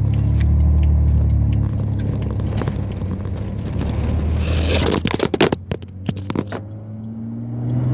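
Truck's straight-six engine running with a low hum heard from inside the cab. Around four and a half seconds in, a scrape and a quick cluster of sharp knocks and clatter: the recording phone falling from its holder onto the floor, with the engine sound muffled for a moment before it returns.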